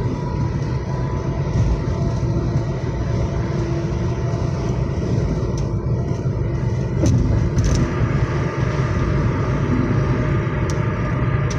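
Steady low rumble of engine and road noise inside a moving car's cabin, with a few faint clicks in the second half.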